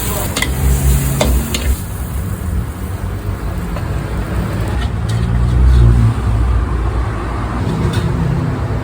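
Noodles stir-frying in a wok: sizzling and a few sharp metal strikes of the spatula over a loud low rumble that swells about six seconds in.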